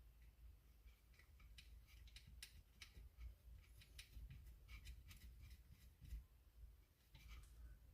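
Near silence with faint, scattered light clicks and ticks, as small hardware such as a screw, washer and nut is handled and fitted by hand.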